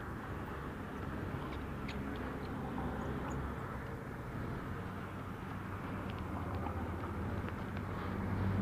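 A vehicle engine running steadily with a low hum, among outdoor road noise.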